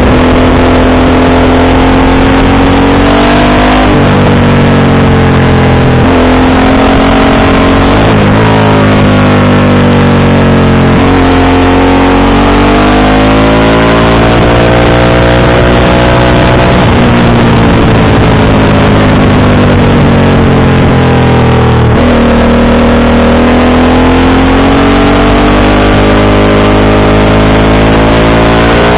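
Motorcycle engine with an aftermarket exhaust running under way, its revs rising and falling throughout, with sudden drops in pitch about 4, 11 and 22 seconds in, like gear changes.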